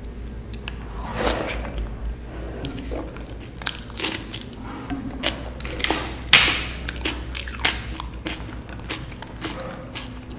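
Close-miked eating of dal and rice: irregular wet chewing and mouth clicks, with a few louder sharp crunchy bites about four, six and a half, and eight seconds in.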